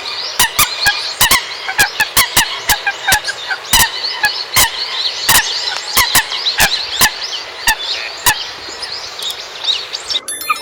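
Common coots calling: a dense chatter of short, high, overlapping calls, punctuated by sharp clicking calls about twice a second. The chatter thins out near the end.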